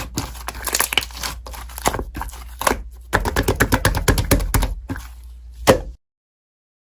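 Slime being squeezed and worked by hand, giving a quick irregular run of clicking, crackling pops that grows densest in the middle, with one sharp pop just before the sound ends abruptly.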